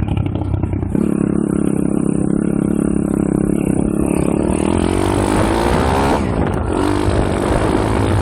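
M2R KX140 pit bike's 140cc four-stroke single-cylinder engine running hard under the rider. Its pitch climbs from about four seconds in, drops briefly near six seconds, then rises again.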